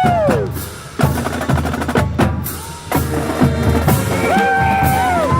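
Marching band drumline playing a street cadence: snare drums and deep bass drum strokes, with sharp hits every half second or so. A voice calls out with a falling pitch at the start and again near the end.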